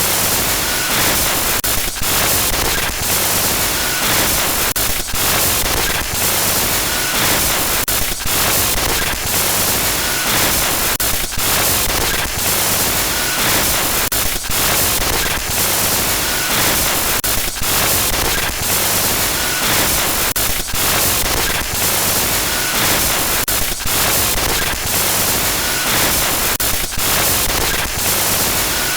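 Loud, harsh glitchy static noise, a continuous hiss across the whole range broken by frequent brief dropouts, with a faint short beep recurring about every two seconds.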